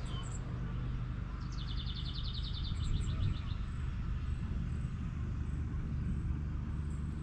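A songbird gives a fast trill of rapidly repeated high notes lasting about two seconds, starting about a second and a half in, with a short chirp right at the start. Under it runs a steady low outdoor rumble.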